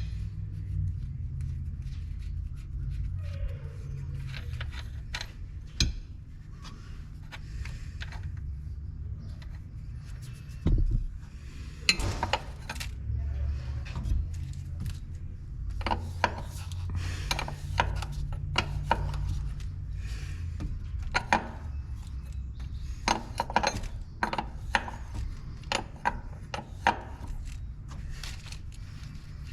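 Hand tools working on a truck-mounted pump: a ratchet clicking, scattered metal clinks, knocks and scraping as the pump is backed off to fit a new gasket, over a steady low hum.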